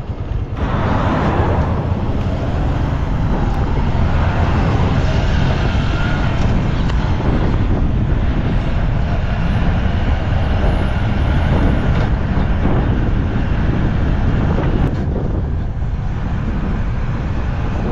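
Motorcycle riding along on the road: a steady engine rumble mixed with rushing noise.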